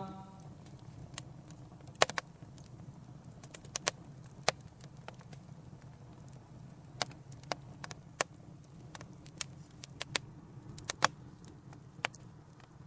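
Wood fire crackling: sharp, irregular pops, a few a second at most, over a faint low steady background.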